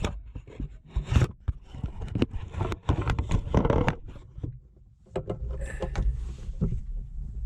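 Hand-work noises: irregular clicks, knocks and scraping of tools and metal parts being handled while the air-conditioning fan motor is fitted and bolted in, with a short lull near the middle.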